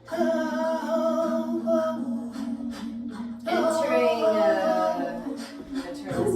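A woman's voice singing long, wordless qigong healing-sound tones. One tone is held for about two seconds, then after a short break another rises in and glides down. A steady low hum sits underneath.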